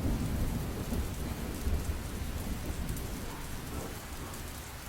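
Heavy rain pouring down, a steady hiss over a low rumble, easing slightly toward the end.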